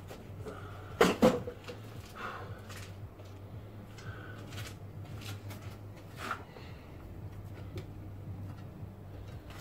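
Scattered knocks and clicks of tools and parts against metal during work on a car's front end, with one loud knock about a second in, over a steady low hum.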